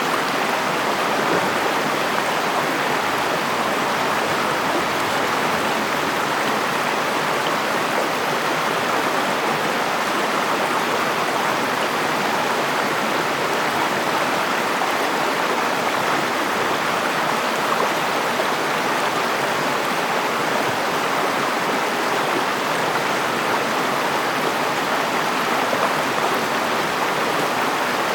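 River water flowing steadily over stones.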